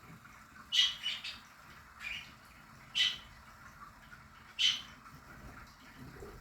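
Budgerigars giving short, sharp chirps and squawks, one or two at a time, about every second or so.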